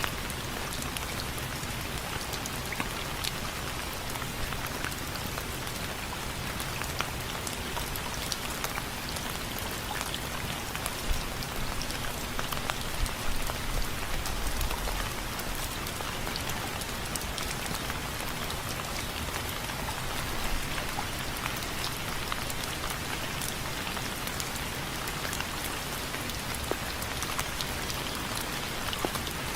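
Steady rain pattering on window frames, with many separate drops ticking sharply against the frame. The rain grows a little louder and denser for a few seconds about midway.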